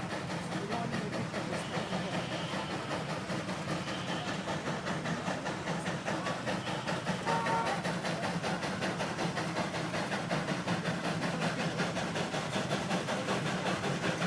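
1905 Case 20-horsepower steam traction engine working hard under load while pulling the sled, its exhaust beating in a rapid, steady rhythm that grows a little louder about halfway through.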